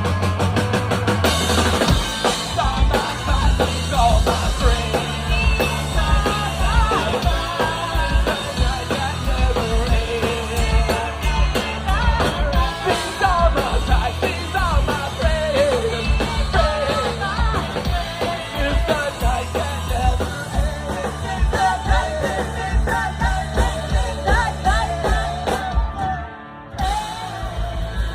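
Live rock band playing loud: electric guitars, bass and a driving drum kit under sung vocals. The band drops out briefly near the end, then the drums come back in.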